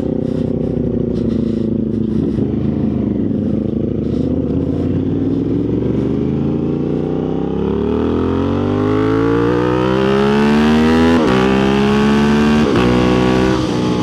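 Motorcycle engine running steadily, then from about six seconds in revving up with a steady rise in pitch as it accelerates, broken twice near the end by brief cuts as it shifts up.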